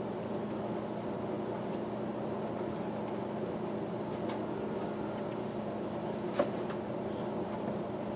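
A steady background hum with a few light clicks of hand work on the cab's sun visor hardware, one sharper click about six seconds in.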